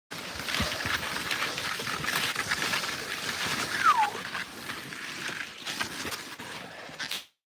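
Skis sliding and crunching over snow during a skijoring run, a steady scraping hiss with many small crunches. There is a short falling squeal about four seconds in. The sound cuts off suddenly near the end.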